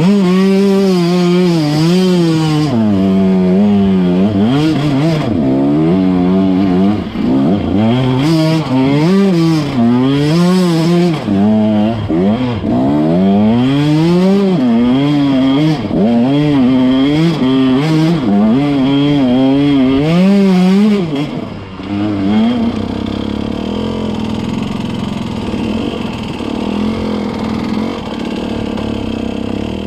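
KTM 150 two-stroke dirt bike engine revving up and down over and over. About 22 seconds in it settles into a steadier, lower running.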